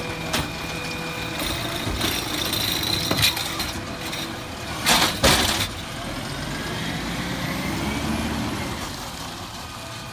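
Garbage truck running, with metallic clanks and a loud double burst of hissing noise about five seconds in.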